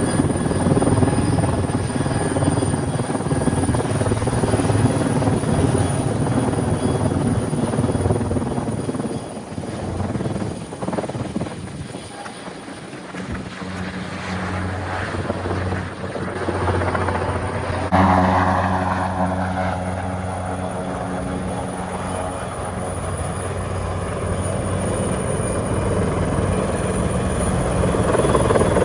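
Helicopter running close by during a rooftop lift, its rotor and engine sound with a steady high whine, fading down in the middle and then jumping back up suddenly about 18 seconds in.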